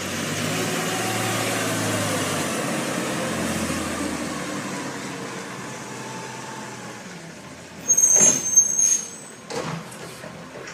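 Garbage truck engine running, growing fainter over several seconds. About eight seconds in there is a short, loud, high-pitched squeal with a hiss, then a few light knocks.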